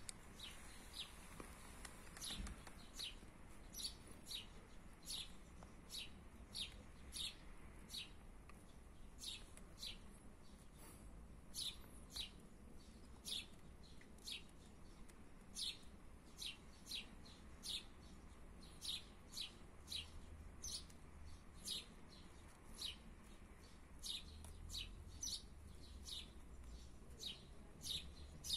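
A small bird chirping in the background: short, high chirps repeated irregularly, about one or two a second, faint, over a low wind rumble.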